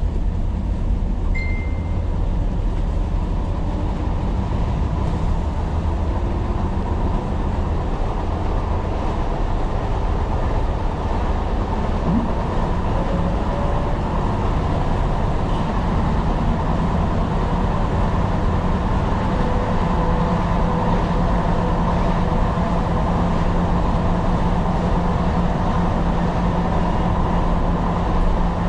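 Tyne and Wear Metro train running along the track: a steady low rumble of wheels on rail, with a steady hum that grows stronger about two-thirds of the way through.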